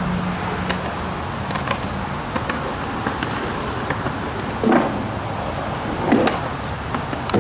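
Skateboard wheels rolling on wet pavement, a steady rolling noise with scattered sharp clicks.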